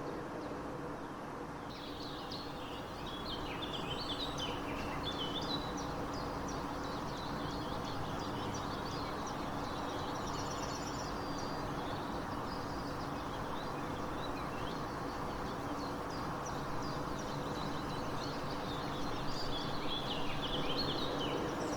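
Outdoor nature ambience: a steady background wash with a faint low hum. Small birds chirp in quick twittering phrases a couple of seconds in and again near the end.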